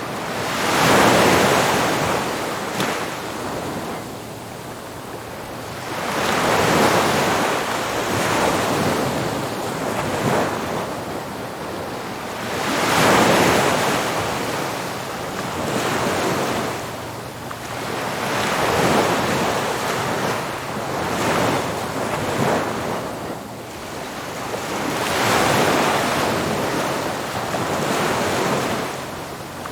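Ocean surf breaking on a beach, each wave swelling into a loud rush and washing back, about every six seconds with smaller breakers between, and a steady hiss of wind.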